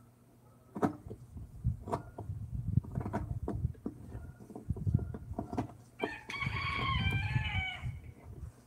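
A rooster crows once, a call of about two seconds near the end. Before it come irregular knocks and taps.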